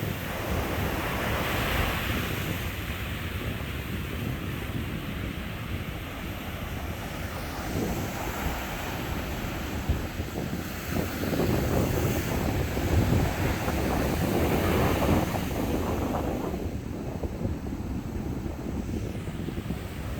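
Sea waves breaking on the beach and washing up in foam, a steady rushing surf that swells loudest about halfway through, with wind buffeting the microphone.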